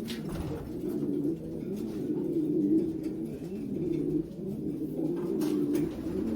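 Racing pigeons cooing, several birds calling over one another without a break, with a few brief clicks.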